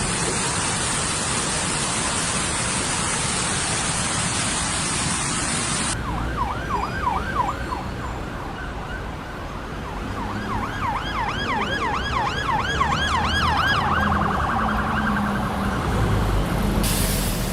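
Heavy rain pouring for about six seconds, then an emergency vehicle's siren yelping in fast rising-and-falling sweeps, about three a second, pausing briefly and starting again before settling into a steadier tone near the end, with a low vehicle rumble beneath.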